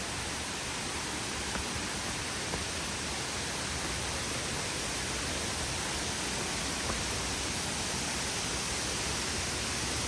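Waterfall rushing, a steady even roar of falling water, with a few faint light ticks.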